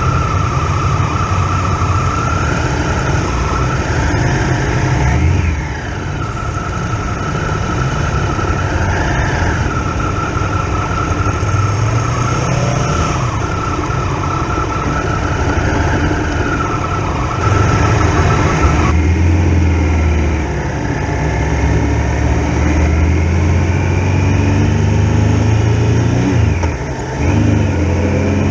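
Triumph Tiger Explorer XRx's three-cylinder engine running under way, its pitch rising and falling several times with throttle and gear changes. The sound changes in character about two-thirds of the way through.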